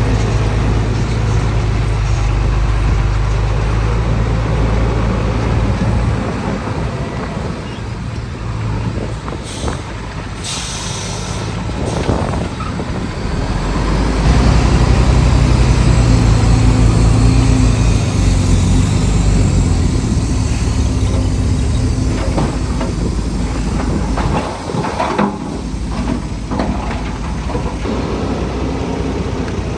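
Diesel engine of heavy earthmoving equipment working steadily. It eases off about six seconds in and runs hard again from about fourteen seconds, with a short burst of hissing air near ten seconds.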